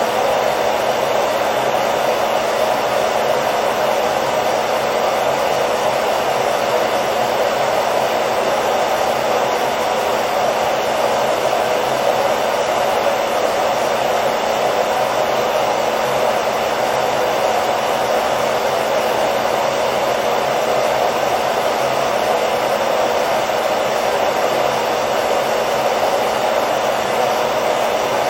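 Hair dryer running steadily: a constant rushing blower noise with a faint motor hum, used as white noise to lull a baby to sleep.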